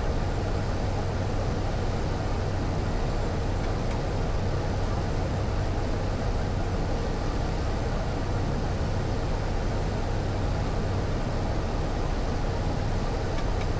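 Cessna Caravan's PT6A turboprop engine and propeller running steadily at approach power on short final: a constant low drone with an even rushing noise over it.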